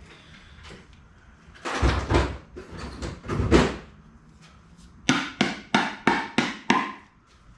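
Metal lid of a can of Bondo body filler being pushed and tapped back shut: two heavy knocks, then about six quick sharp taps, roughly three a second.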